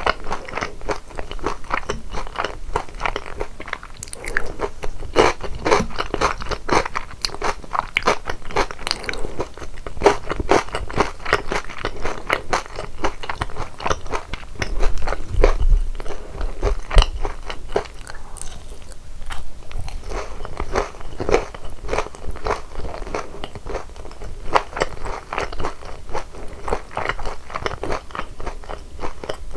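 Close-miked crunching and chewing of crispy boneless fried chicken coated in sweet-and-salty seasoned sauce: dense crisp crunches in quick succession, with a short lull about two-thirds of the way through.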